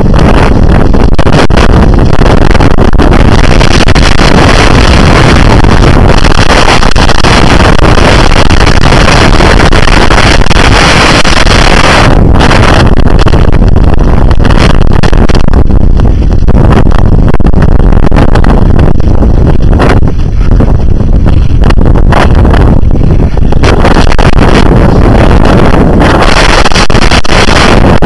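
Gale-force mountain wind buffeting the camera microphone: a loud, overloaded rumble that rises and eases with the gusts.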